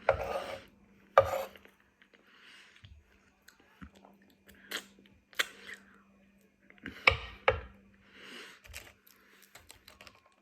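Close-miked eating: chewing with crunchy bites, loudest at the start, about a second in, and about seven seconds in.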